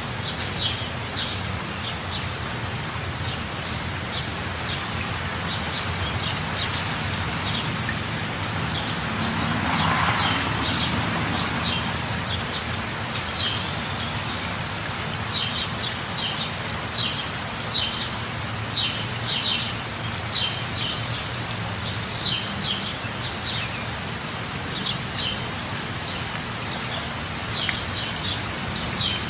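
Rainforest ambience: steady rain with birds chirping in short, repeated calls that come thicker in the second half. There is a brief swell in the rain noise about ten seconds in.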